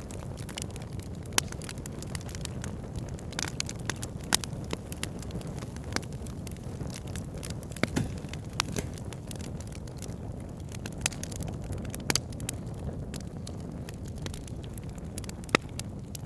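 Wood fire burning in a fireplace: a steady low rush of flames with irregular sharp crackles and pops, and a few louder snaps scattered through.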